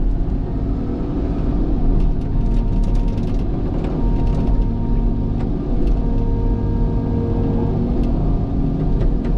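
Cat excavator's diesel engine and hydraulics running steadily under digging load, with a whine that comes in about four seconds in and fades near eight, and a few light knocks.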